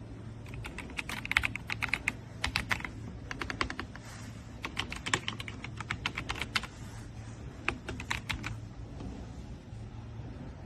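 RK Royal Kludge S98 mechanical keyboard with pale green tactile switches and PBT keycaps, typed on in several quick bursts of keystrokes with short pauses between.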